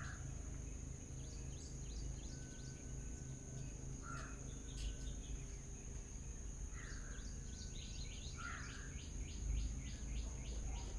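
Small birds chirping and calling at intervals, with a quick run of short repeated chirps near the end, over a steady high-pitched whine and low background rumble.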